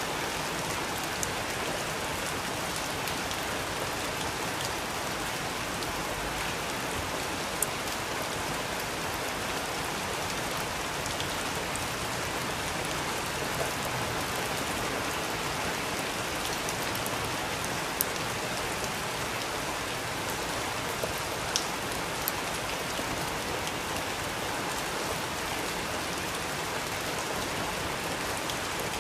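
Steady rain falling, an even hiss of rain on a surface, with now and then a single sharp tick.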